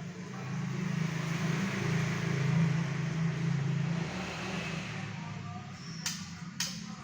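A motor vehicle going past, its noise swelling and then fading over a steady low hum, with two sharp clicks near the end.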